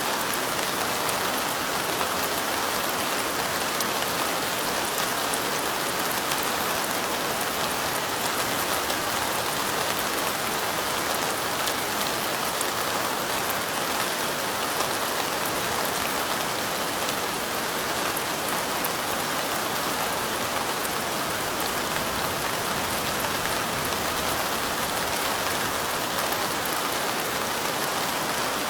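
Steady light rain falling, an even, unbroken patter of many drops.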